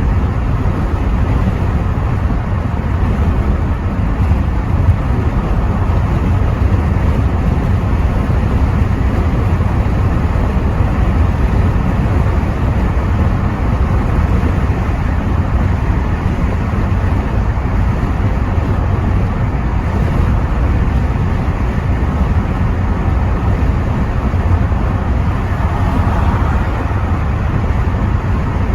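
Inside the cabin of a Rover 75 V6 estate on the move: a steady low rumble of engine, tyre and road noise, with wind buffeting through the part-open windows.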